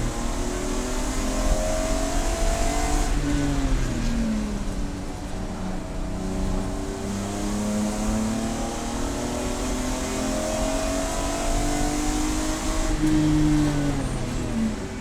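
Race car engine at full throttle, its pitch climbing steadily and then falling sharply twice, about three seconds in and again near the end, as the car brakes or shifts down between stretches of acceleration.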